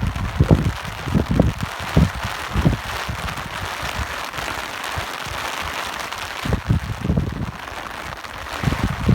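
Steady hiss of rain, with irregular low gusts of wind thumping and rumbling against the microphone. The gusts come thickest in the first few seconds and again near the end.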